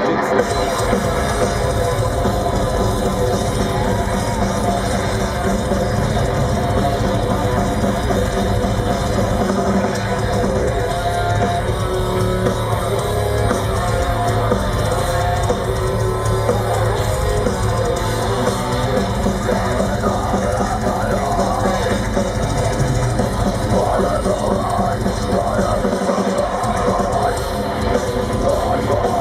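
Live heavy metal band playing an instrumental passage: distorted electric guitars over a drum kit, steady and loud throughout.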